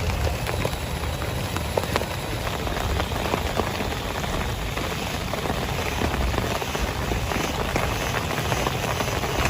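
Heavy rain falling steadily, with many sharp individual drop impacts ticking through the downpour.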